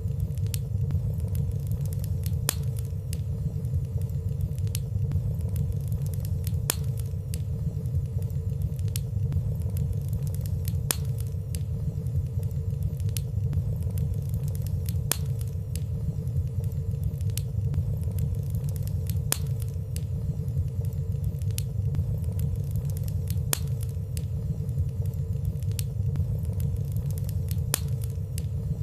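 Wood fire burning steadily in a fireplace: a low, even rumble of flames with light, scattered crackling ticks, about one or two a second and none of them loud.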